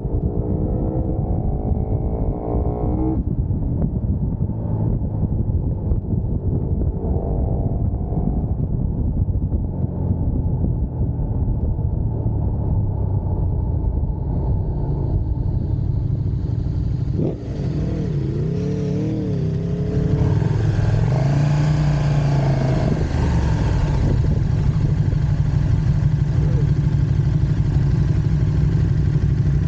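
Motorcycle engine heard while riding at speed under a constant heavy rumble of wind. The engine pitch rises under acceleration in the first few seconds. A little past halfway it dips and wavers up and down, then settles into a louder, steady drone.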